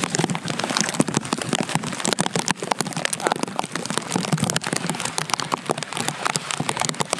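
Rain falling steadily, a dense crackle of close drop hits.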